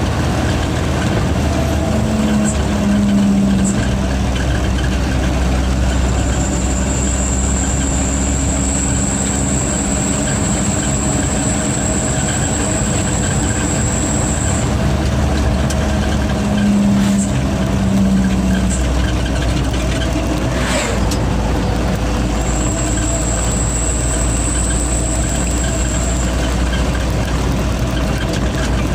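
Truck diesel engine running steadily under way. A thin, high turbo whistle comes in twice, several seconds each time.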